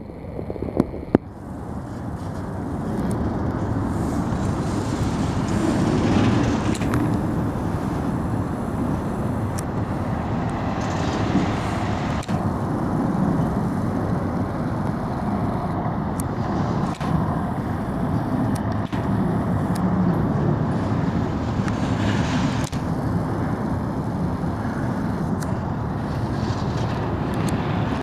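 Double-stack intermodal freight train rolling past: a steady rumble of steel wheels on rail from the loaded well cars, with occasional sharp clicks.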